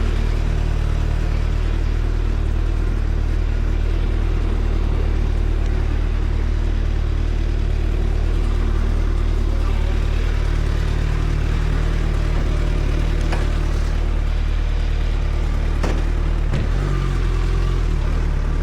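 Suzuki Hayabusa's inline-four engine running steadily at a constant engine speed, its low note holding pitch with no revving, shifting slightly near the end.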